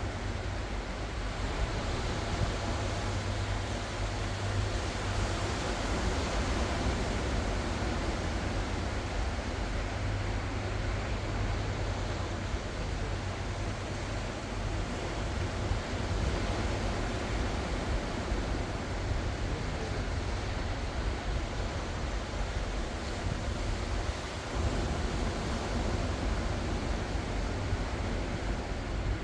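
Ocean surf: a continuous wash of breaking waves with a deep low rumble underneath, swelling and easing gently.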